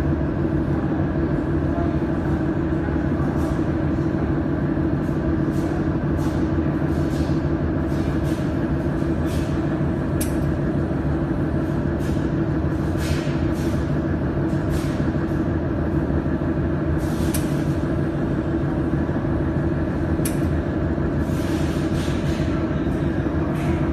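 Mold-repair laser welding machine running with a steady hum, overlaid by sharp ticks at irregular intervals, about half a second to a second apart.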